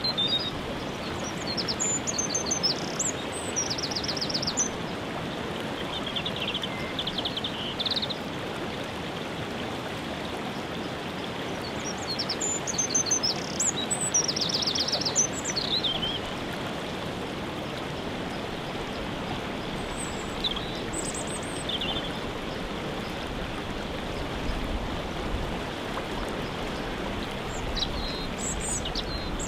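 Steady rush of a waterfall with songbirds calling over it in bouts, including quick trills: a few seconds in, around the middle, and near the end.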